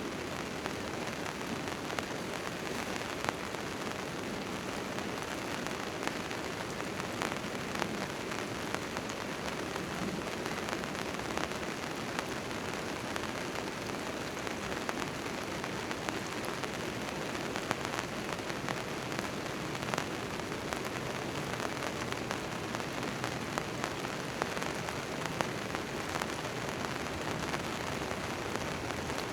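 Rain falling on a tent tarp: a steady patter with scattered louder drops landing.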